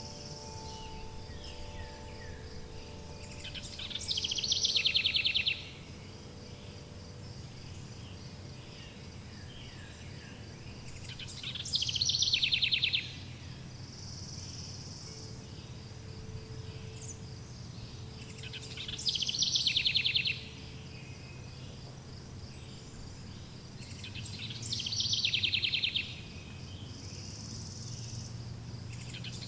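Forest nature ambience: a songbird repeats a short, fast trilled song four times, about every seven seconds, over steady insect chirring. Soft wind chimes ring near the start and again in the middle.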